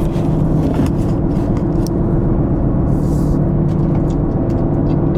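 A car driving with a steady drone of engine and road noise.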